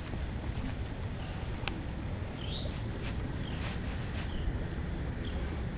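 Outdoor ambience: a steady high-pitched insect drone with scattered short bird chirps, over a low rumbling background.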